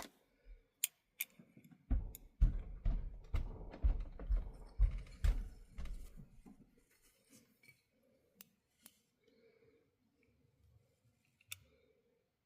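Light clicks and taps of small metal model-locomotive parts and a brass fitting being handled and tried in place, with a denser stretch of low handling bumps and clicks in the first half, then only a few sparse clicks.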